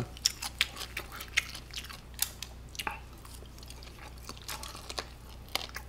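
Close-miked chewing of a mouthful of grilled pork belly, heard as a run of irregular soft, wet mouth clicks and smacks.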